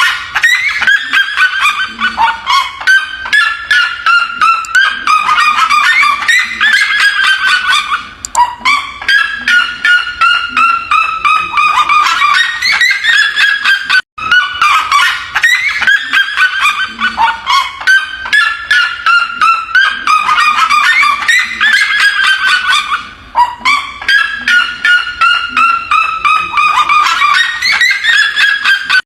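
Red-legged seriema calling: loud, long series of rapid yelping notes, delivered in four bouts with short pauses between them.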